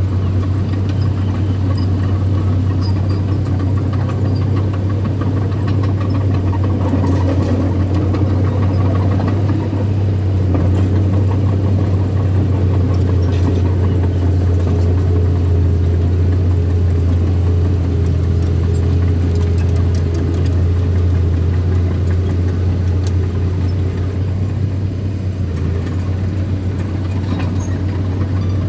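Diesel engine of an earthmoving machine running steadily, a constant low drone with a busy rumble above it.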